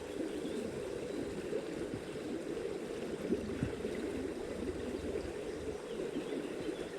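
Water of a small stream running steadily, a continuous rushing hiss with no breaks.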